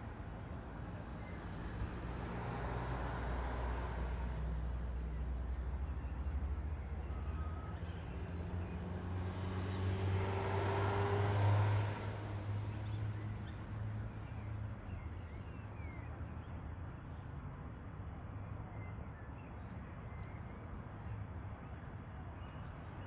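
Road traffic: two vehicles passing by, the second louder, peaking about eleven seconds in, over steady outdoor background noise.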